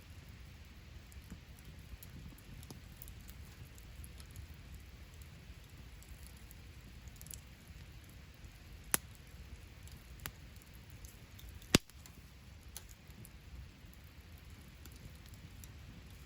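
Wood fire burning with small, scattered crackles over a low rumble, then sharp pops about nine and ten seconds in and a louder pop near twelve seconds.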